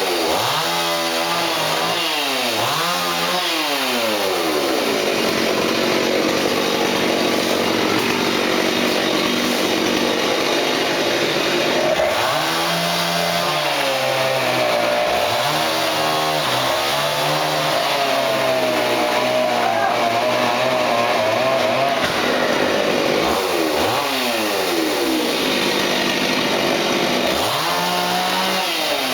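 Two-stroke chainsaw cutting wood, held at high speed for long stretches, its engine pitch dropping and climbing back several times as it is throttled and loaded in the cut.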